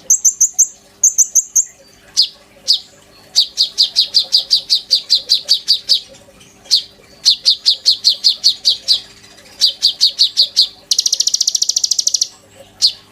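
A songbird known to Indonesian bird-keepers as konin, singing loudly in its 'gacor' form. It opens with two short high chirps, then gives runs of sharp down-slurred notes at about six to seven a second, and near the end a fast buzzy trill.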